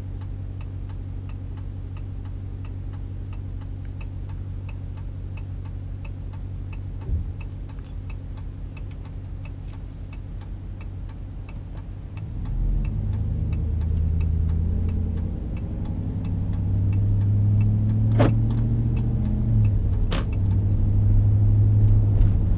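Dodge Ram 1500's 5.7-litre Hemi V8 heard from inside the cab, running low and steady while a turn signal ticks about twice a second. About halfway through the engine note rises and gets louder as the truck accelerates, with two sharp clicks near the end.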